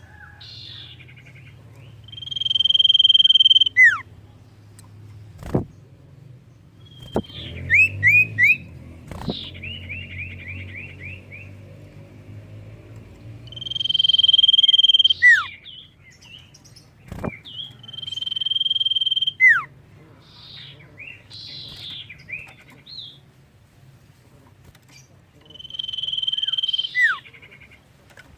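Common iora (cipoh) singing: four long, drawn-out whistles on one high note, each ending in a sharp downward slur, with a quick chattering run of short notes in between. A few faint clicks sound between the phrases.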